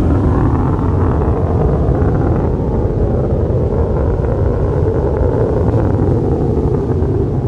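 Fighter jet engine roar, loud and steady with a deep rumble.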